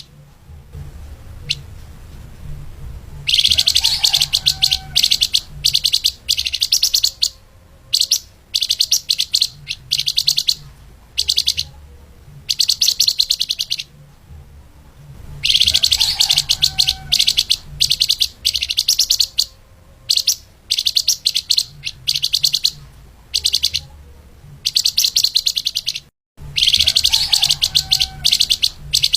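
Flamboyan (lemahan) bird singing in fast, tightly packed high trills and chattering phrases, broken by short pauses, over a faint steady low hum. A longer burst recurs roughly every eleven seconds, and the sound cuts out briefly near the end.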